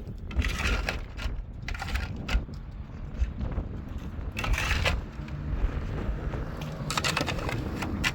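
Irregular crunching noises, several in a row at uneven intervals, over a steady low rumble.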